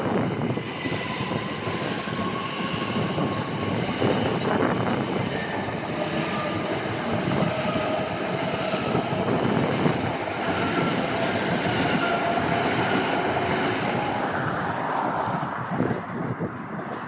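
Electric multiple-unit passenger train running along the track through the station, with several steady wheel-squeal tones over the rumble. There are a few sharp clicks of the wheels, and the sound dies away about a second before the end.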